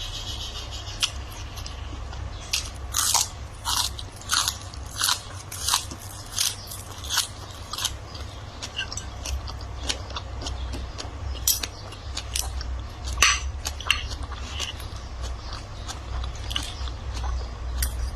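A person chewing and crunching food with their mouth, with a run of regular crunchy bites about every 0.7 seconds for several seconds, then slower, irregular crunches.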